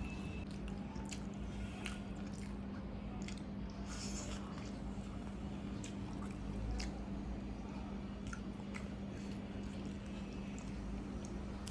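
A person chewing and biting into a curry meal with rice and chicken, with scattered small clicks and wet mouth sounds, over a steady low hum.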